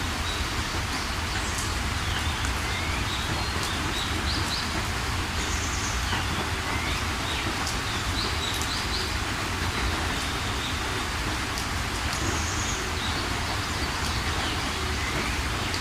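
Steady rain falling, with a low rumble beneath it, while small birds chirp and call in short upswept notes throughout.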